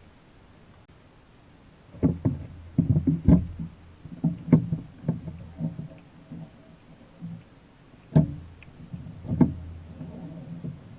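Irregular knocks and thumps on a plastic kayak's hull, starting about two seconds in, with the sharpest knocks near three and eight seconds in.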